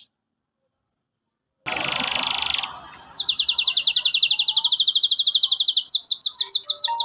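Canary singing: after about a second and a half of silence, a short buzzy trill, then a long, fast trill of rapidly repeated downslurred notes that slows slightly near the end.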